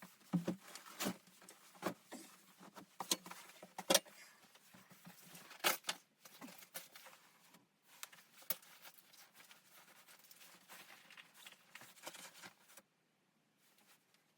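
Irregular sharp clicks and knocks, some louder than others, that stop shortly before the end.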